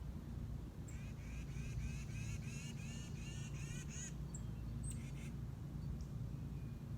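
A small bird calling a quick run of about ten short, slightly arched notes over some three seconds, with a steady low rumble underneath.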